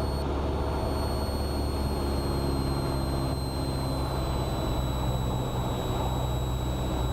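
Cessna 172R's four-cylinder Lycoming engine and propeller droning steadily in level flight on the downwind leg, with a thin high whine above it that sinks slowly in pitch.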